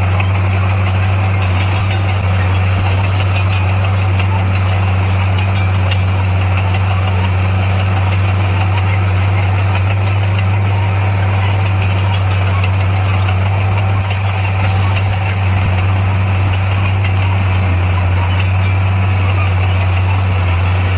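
Heavy construction machine's diesel engine running at a steady speed, with a deep, unchanging drone.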